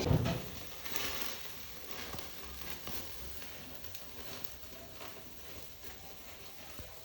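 Faint crackling and sizzling of food frying in a pan, with scattered light clicks. A short louder sound comes right at the start.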